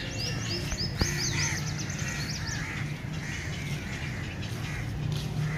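Small birds chirping in a quick run of high, sliding notes for the first two and a half seconds or so, with softer bird calls going on throughout over a steady low rumble.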